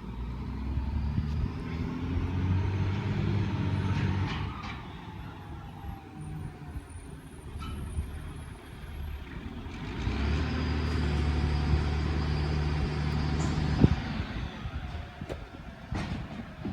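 Motor vehicles driving past on the street, two passes: an engine drone swells about a second in and fades with a slowly falling pitch, then a second one swells about ten seconds in and fades near the end.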